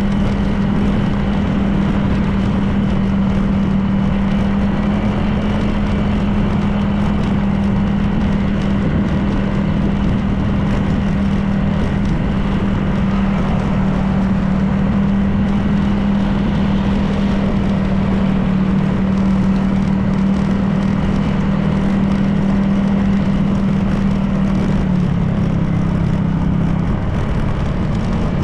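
Honda PCX 160 scooter's single-cylinder engine running steadily at cruising speed, with wind and road noise. The engine note eases slightly lower near the end.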